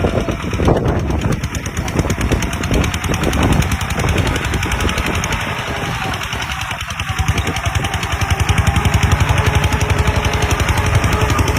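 Bulldozer's diesel engine running with a fast, rapid-fire pulse; it grows louder from about halfway through as it works harder.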